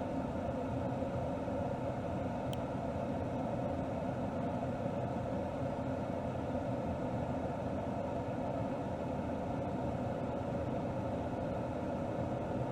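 Mercedes GLS 450's 3.0-litre turbocharged inline-six with EQ Boost mild hybrid, heard from under the hood, running steadily at low revs with no change in pitch. A single brief tick comes about two and a half seconds in.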